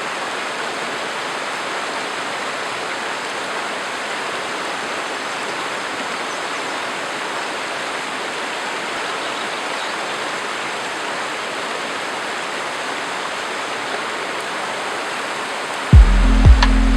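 A small river rushing steadily over rocks and logs, a constant even flow of water. Music with a low beat comes in abruptly near the end.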